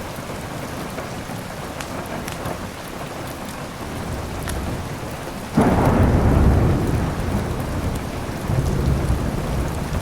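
Steady heavy rain with small sharp crackles from a wood fire. A little past halfway a sudden loud, deep thunderclap breaks in and rumbles on to the end, the loudest sound here.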